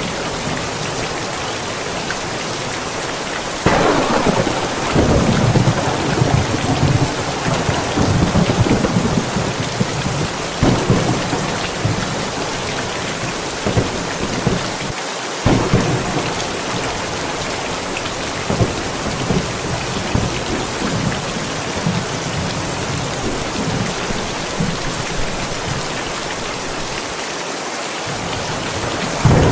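Steady rain falling through a thunderstorm. A thunderclap about four seconds in rolls on in rumbles for about ten seconds, a second peal breaks a little past halfway, and another starts right at the end.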